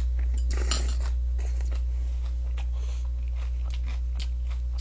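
A person chewing a mouthful of fried chicken and scallion salad close to the microphone: a run of short, crisp wet mouth clicks over a steady low hum.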